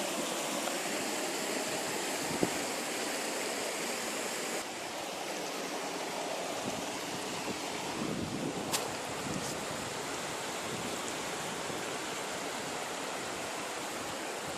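Steady rushing of a small mountain river's water pouring over low cascades, with a couple of brief clicks.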